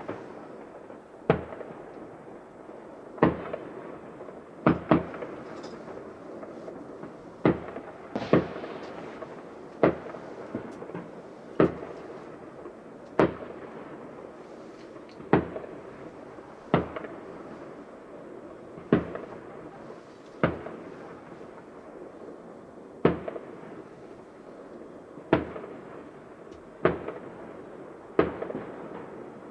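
Fireworks display: aerial shells bursting with sharp bangs every one to two seconds, each trailing off in a short echo, over a steady background noise.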